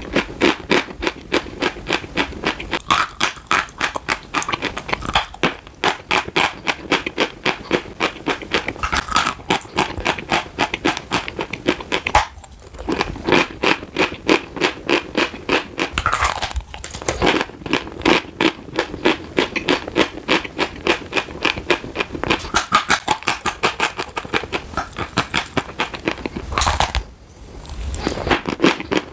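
Close-up crunching and grinding of chalk being chewed, a quick steady rhythm of crunches, about three or four a second, with two short pauses, one near the middle and one near the end.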